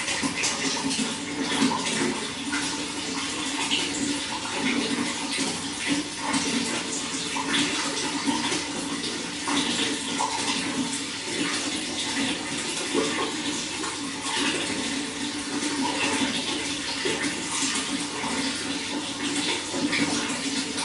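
Running water flowing steadily, full of small constant splashes.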